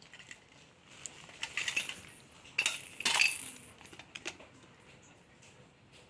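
Clattering and clinking of hard metal objects, in two bursts about two and three seconds in.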